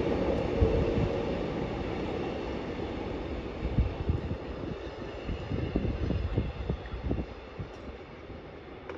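Train passing and receding, its rumble fading steadily away. Irregular low knocks come through in the second half.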